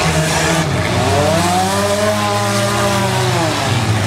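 Demolition-derby cars' engines running together, one revving up for about a second and then easing back down, with other engines running steadily underneath.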